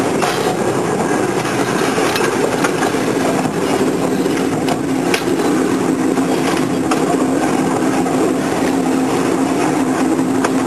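Train running along the rails: a steady rumble of wheels on track with a steady hum and scattered sharp clicks over the rail.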